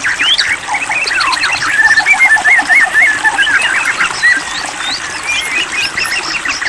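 White-rumped shama (murai batu) singing a fast, varied run of clear whistled notes, chirps and quick up-and-down glides, without a break.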